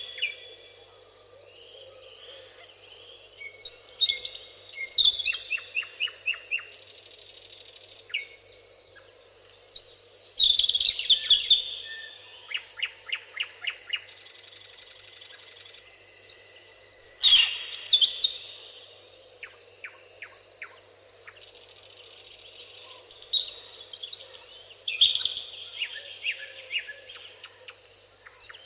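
Several songbirds singing and calling: high chirps, whistled glides and quick stuttering trills coming one after another. Three times, about every seven seconds, a high buzzing hiss sounds for a second or two.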